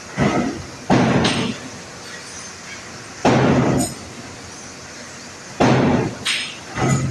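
Heavy hammer blows on steel, about six strikes at uneven intervals, some in quick pairs, each ringing briefly, while an 800-ton press is being dismantled.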